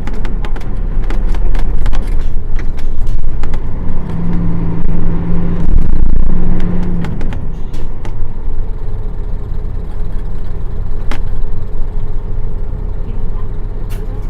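Nissan Diesel PF6 six-cylinder diesel engine of a city bus running under way, with a low rumble and frequent rattles and clicks. A steady engine note comes in about four seconds in for about three seconds, and the sound then settles quieter.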